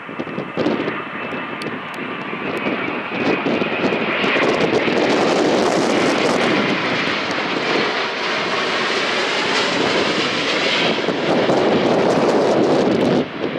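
Boeing 787-10's Rolls-Royce Trent 1000 turbofan engines running close by, a steady jet roar with a faint whine that grows louder about four seconds in and eases near the end.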